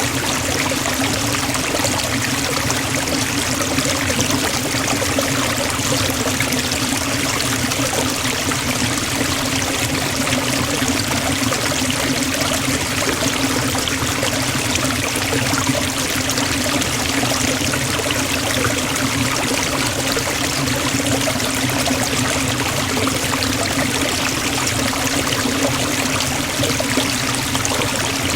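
Forest waterfall splashing and rushing steadily, an even unbroken wash of falling water.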